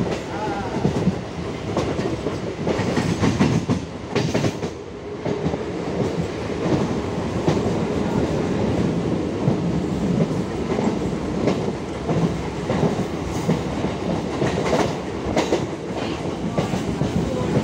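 ICF Medha-rake electric multiple unit local train running along the track: a steady rumble with wheels clacking over rail joints at irregular intervals.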